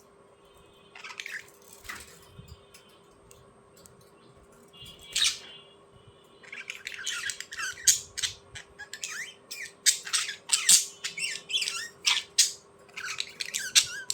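A bird squawking and chirping: a few separate calls in the first half, then a quick run of squawks and chirps through the second half, over a faint steady hum.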